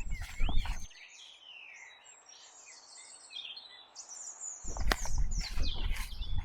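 Birds chirping and singing in a quiet stretch, between bursts of knocking and clattering at the start and the end.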